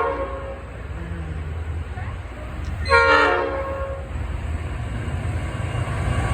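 Goods train locomotive sounding its horn: a blast just ending at the start and another short blast about three seconds in, over the low rumble of the train, which grows louder toward the end as it approaches.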